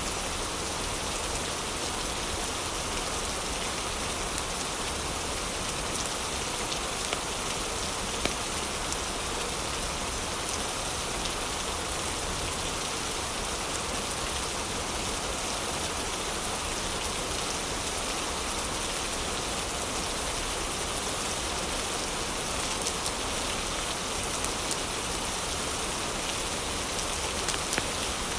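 Heavy rain falling steadily, with scattered light crackles and pops from a wood fire in a fireplace.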